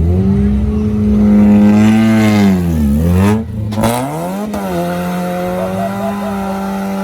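Car engine revved hard and held at high revs. The revs sag and climb back twice about three to four seconds in, then hold steady.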